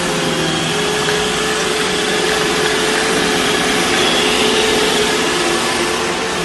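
A motor running steadily: a loud, even whir with a steady hum underneath.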